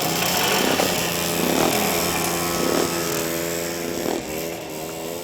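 A motorcycle engine running at a fairly steady pitch, growing somewhat quieter near the end.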